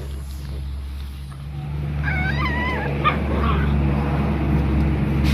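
Dog whining in short, wavering high cries about two seconds in, over a steady low rumble.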